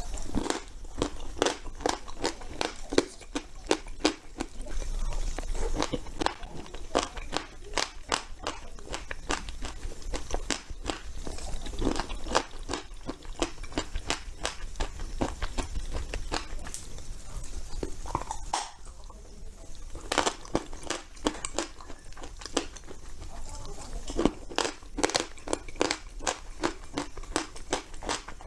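Edible clay being bitten and chewed close to the microphone: a dense, irregular run of sharp crunches, with a brief pause about two-thirds of the way through.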